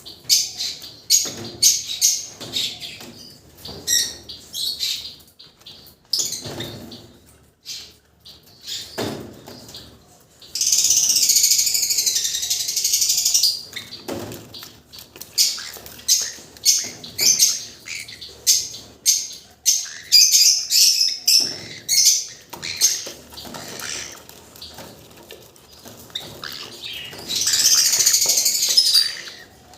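Baby yellow-sided conures calling in many short, high chirps and squeaks during hand-feeding, with two longer stretches of steady hiss-like noise, one about ten seconds in lasting some three seconds and a shorter one near the end.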